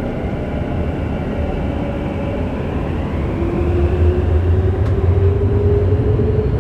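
Subway train running through a tunnel, heard from inside the car: a steady low rumble of wheels on rail, joined about three seconds in by a motor whine that climbs in pitch as the train picks up speed, growing louder.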